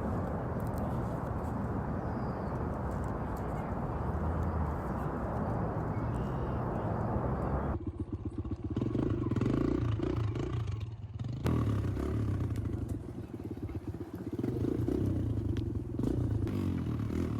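Dirt bike engine running steadily, with abrupt changes in the sound about 8 and 11.5 seconds in.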